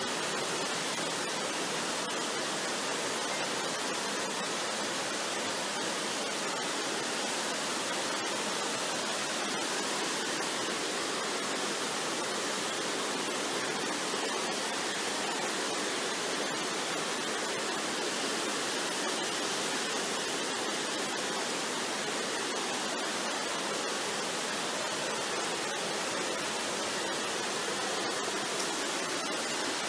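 Waterfall rushing in a steady, even hiss of falling water that does not change.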